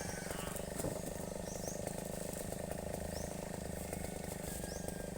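A small engine running steadily at low speed, with a few short high chirps over it.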